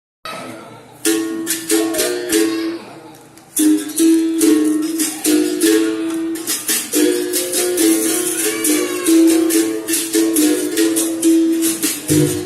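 Capoeira berimbau, struck with a stick and accompanied by a shaken caxixi rattle, playing a rhythm that steps between two notes. It thins out briefly around three seconds in, then carries on.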